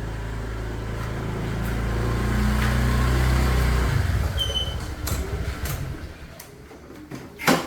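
Motorcycle engine running with a steady low note that grows slightly louder, then cuts off abruptly about four seconds in. Quieter background with a few clicks follows, then a sharp knock near the end.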